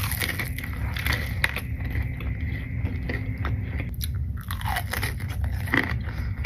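Close-miked eating: biting into crunchy food and chewing, with many sharp crunches and mouth clicks. There is a short falling squeak partway through.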